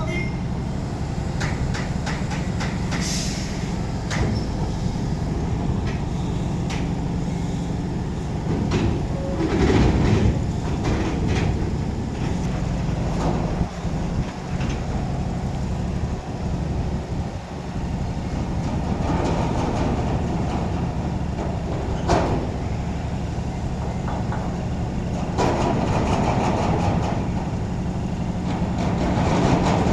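Heavy diesel engine running steadily with a low hum, with intermittent metallic clanks and knocks; a sharp bang comes about 22 seconds in.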